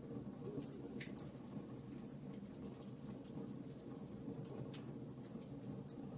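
Wood fire in a fireplace crackling, with irregular small pops and snaps over a steady low hum.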